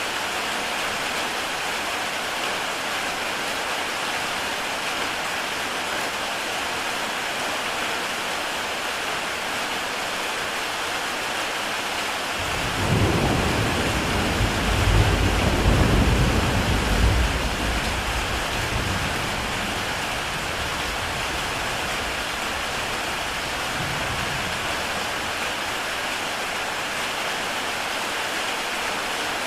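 Heavy rain falling steadily on a tile roof, with a roll of thunder breaking in about twelve seconds in: a deep rumble that swells for a few seconds and dies away, followed by a fainter rumble a few seconds later.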